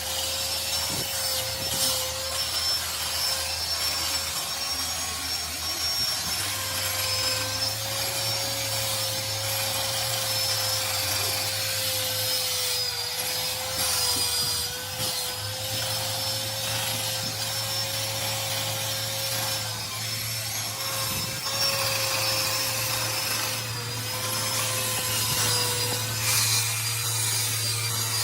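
A small electric power tool running steadily, its motor holding one slightly wavering whine, with a continuous rubbing, scraping noise as it abrades the metal of a cylinder head during cleaning.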